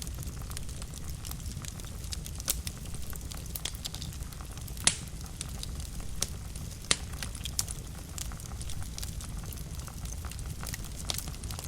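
Wood fire burning in a fireplace: a steady low rumble of flame under frequent sharp crackles and pops, the loudest pop about five seconds in.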